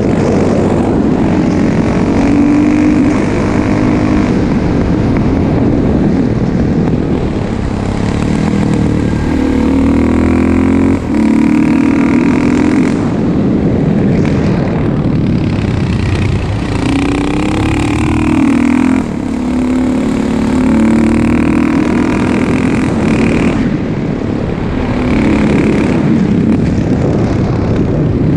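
2004 KTM 640 SMC's LC4 single-cylinder four-stroke engine, breathing through an exhaust with its dB killer fitted, revving up and falling back several times as the bike is ridden, with short dips about a third and two thirds of the way through.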